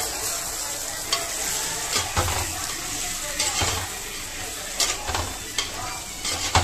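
Chicken frying in oil in a clay pot, sizzling steadily, while a perforated metal ladle stirs it through the masala. Several short scrapes of the ladle against the pot come through over the sizzle.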